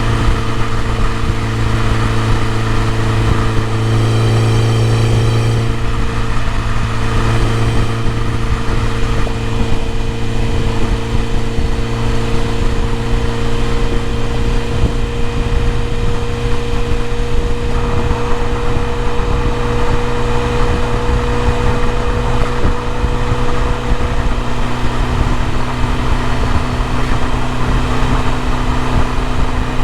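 BMW E30 M3's S14 four-cylinder engine idling steadily, with a short swell in the sound about four to six seconds in.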